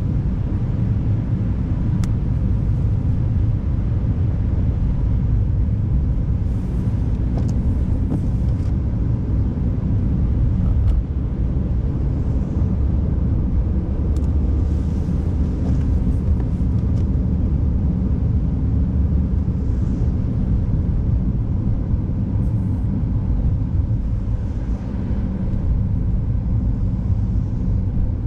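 Steady low rumble of a car driving on a snowy, icy road, heard from inside the cabin: engine and tyre noise, with a few faint clicks.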